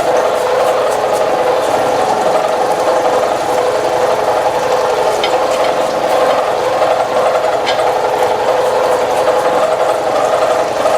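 Milling machine taking a heavy cut in metal under flood coolant: a steady mechanical drone from the spindle and cutter, with a few faint ticks.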